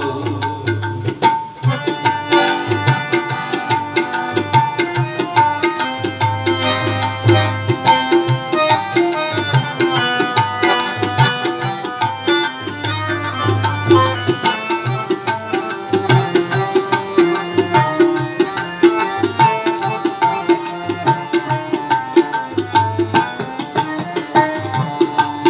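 Instrumental interlude of a devotional song: tabla playing a quick steady rhythm under a sustained melodic accompaniment.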